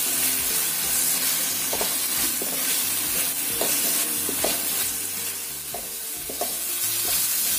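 Ground spice paste sizzling in oil in an aluminium wok, stirred with a wooden spatula. A steady sizzle runs under it, with a few sharp scrapes of the spatula against the pan.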